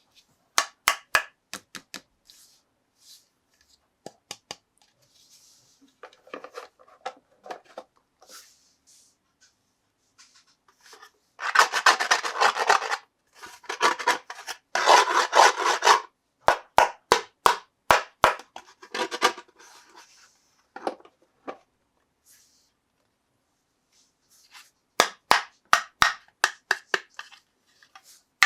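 Close-up toy unboxing handling sounds. There are sharp clicks and taps throughout, and two bouts of rubbing or scraping, each lasting a second or two, near the middle.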